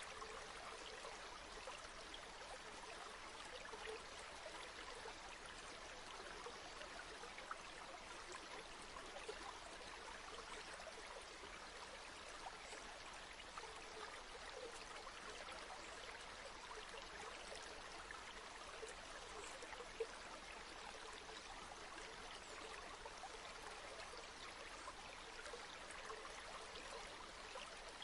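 A flowing river: a faint, steady sound of running water, even throughout.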